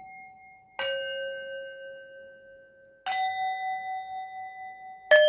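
Singing bowls struck one after another about every two seconds, alternating between a higher and a lower note, each ringing on and slowly fading under the next.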